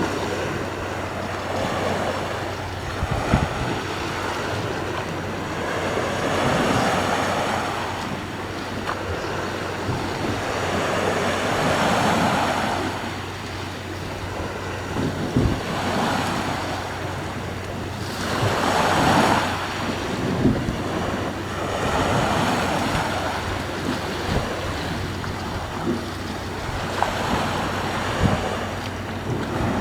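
Sea waves washing in and out, the rush of water swelling and fading every few seconds, with wind buffeting the microphone in sharp knocks.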